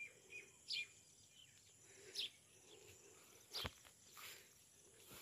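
Near silence outdoors, broken by a few faint, brief downward-sweeping bird chirps spaced a second or more apart. There is a single sharp click about three and a half seconds in.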